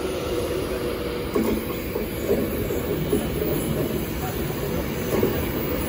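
Avanti West Coast Class 390 Pendolino electric train running past at the platform as it pulls out of the station, a steady rumble of its wheels on the rails and its running gear.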